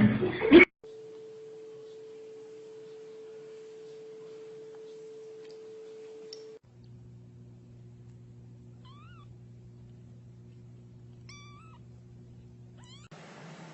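Domestic cat meowing: one loud short yowl at the very start, then a few faint brief meows over a steady background hum.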